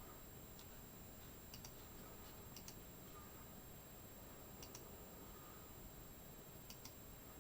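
Faint computer mouse clicks every second or two, some in quick pairs, over near-silent room tone.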